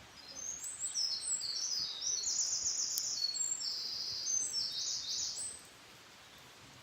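A wild songbird singing one long, loud song of rapid trills that jump between pitches, lasting about five seconds and stopping abruptly.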